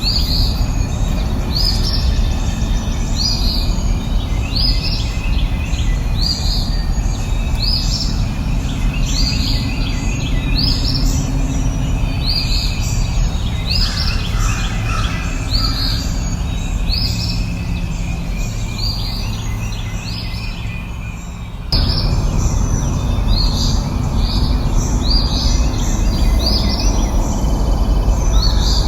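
A bird repeating a short high chirp roughly once a second, over steady low background noise. The background drops and then jumps back suddenly about three-quarters of the way through, like a splice in the recording.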